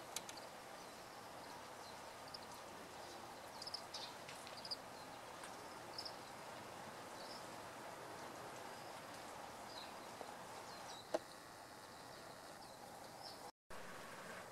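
Faint steady outdoor ambience with a scattered handful of short, high chip notes from a small bird, and a sharp click just after the start and another about eleven seconds in.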